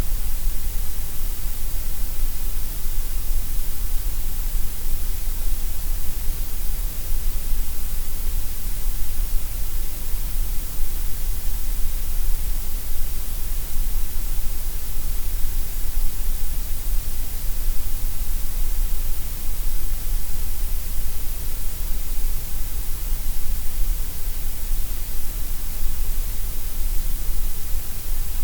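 Gray noise: a steady, unbroken electronic hiss, heavier in the deep lows and the highs than in the middle.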